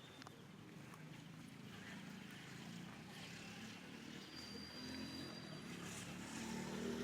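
A motor's low hum that grows steadily louder.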